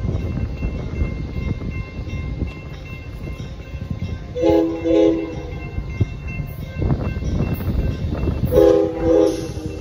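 Amtrak passenger train rumbling past a grade crossing, its locomotive horn sounding two short blasts about four and a half seconds in and two more near the end.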